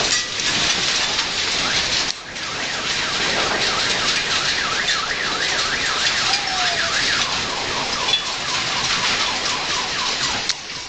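A house rattling and clattering under violent earthquake shaking, a loud continuous din. From about three seconds in, an electronic alarm warbles rapidly up and down over it for several seconds.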